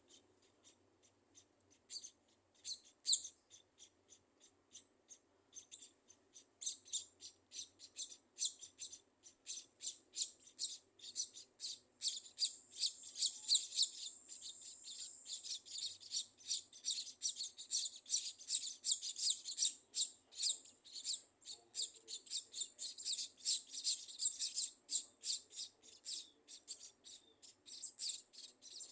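Scaly-breasted munias chirping: short, high chirps, scattered at first, then building about a third of the way in into a dense, rapid chatter.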